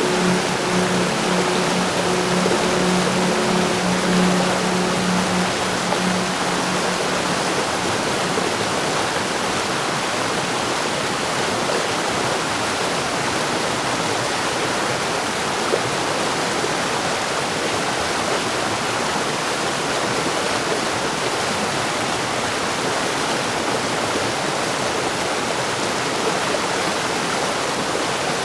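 Heavy rain falling steadily, an even hiss with no thunder. In the first few seconds a low, humming engine-like drone sits under the rain and fades out about six seconds in.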